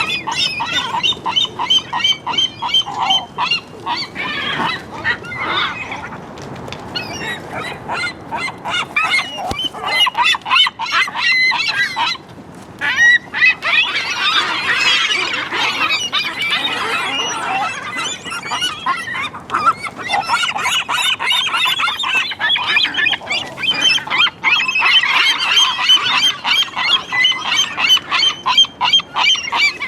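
A flock of gulls squawking and calling over one another, a dense, unbroken clamour of many loud, harsh, honking calls.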